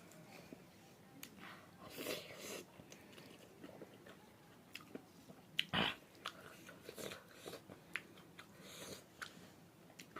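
Close-up mouth sounds of a person chewing and biting food, with soft wet smacks and small crunchy clicks. A louder, short thump comes about six seconds in.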